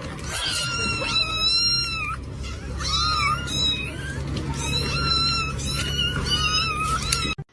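Cats meowing over and over in high-pitched, overlapping calls, with a steady low hum underneath. The sound cuts off abruptly near the end.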